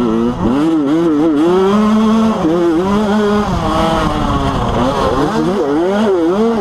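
Motocross dirt bike engine revving hard, its pitch climbing and dropping over and over as the throttle is worked, with short steady stretches in between.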